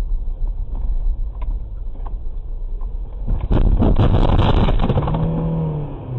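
Car driving, with a steady low drone of engine and road noise. About three and a half seconds in, a loud noisy burst lasts over a second, followed by a held pitched tone that falls away near the end.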